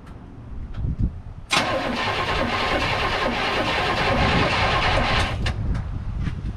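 Starter motor cranking the supercharged engine of a 1952 Mercury. The engine turns over loudly for about four seconds from about a second and a half in, then stops without catching, a sign that it is not getting spark.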